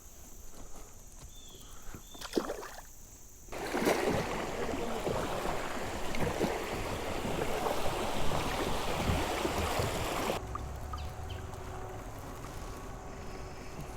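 Water rushing and splashing around a kayak, with a few small knocks first. About three and a half seconds in it turns loud, then drops off suddenly a few seconds before the end to a quieter running-water sound.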